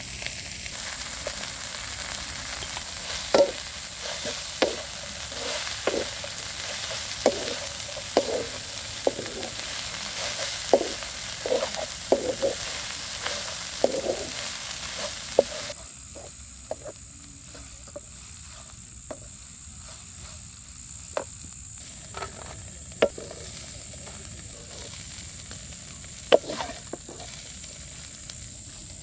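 Grasshoppers sizzling in hot oil in a metal wok while a spatula stirs them, scraping and knocking against the pan about once a second. About halfway through the sizzle drops off abruptly, leaving only occasional scrapes and knocks of the utensil on the wok.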